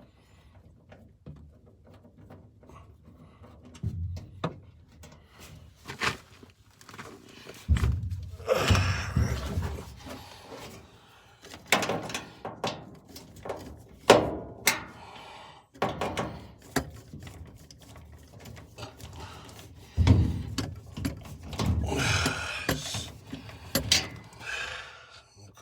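Work noise in a cramped crawlspace: scattered knocks, clunks and clicks from handling things, with two longer stretches of scraping and rustling.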